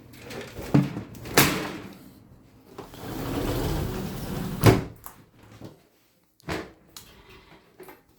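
A series of sharp knocks and bumps, with a rustling scrape in the middle, like objects being handled and set down.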